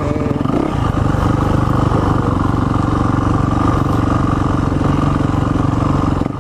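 Dirt bike engine running steadily at a constant speed, with no revving up or down.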